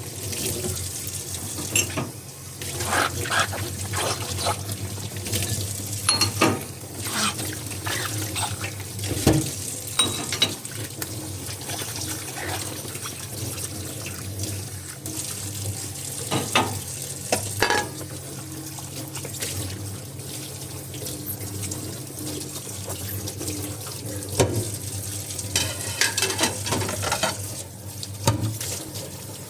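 Tap water running steadily into a kitchen sink as dishes are washed, with frequent short clinks and knocks of dishware against the sink and each other.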